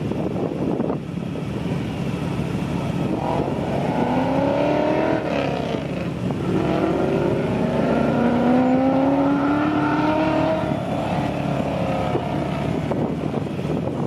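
Race car accelerating hard over a steady rumble. Its engine note climbs, drops at a gear change about halfway through, then climbs again before fading.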